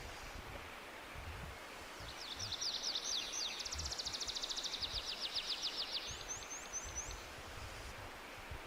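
A songbird singing a fast trill of short down-slurred notes, lasting about four seconds from two seconds in, then a few higher notes, over a steady outdoor background hiss.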